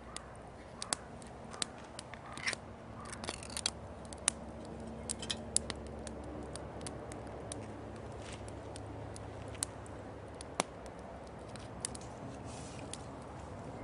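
Wood fire crackling, with irregular sharp snaps and pops over a steady low background.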